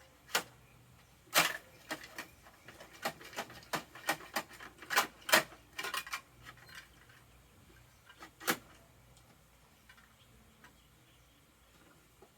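Plastic clicks and knocks of a Bruder toy garbage truck being worked by hand, coming irregularly and stopping about two-thirds of the way through.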